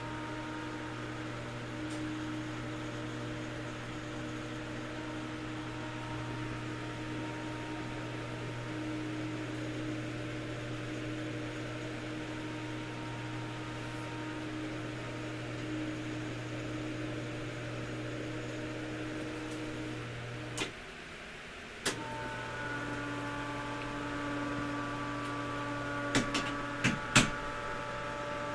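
Electric winch motor running the lift bed with a steady hum. It stops for about a second with a click at each end, then runs again. Near the end there are a few sharp pops from the heavy-gauge winch cable as its wraps hit each other and pop off, because the cable is not feeding evenly onto the drum.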